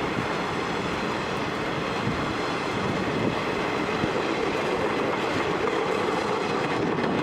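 A freight train's cars rolling past: steady rolling noise of steel wheels on the rails.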